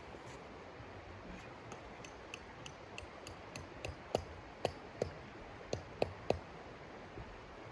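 A run of light, regular clicks, about three a second, then six sharper knocks with a brief ring, close together over about two seconds.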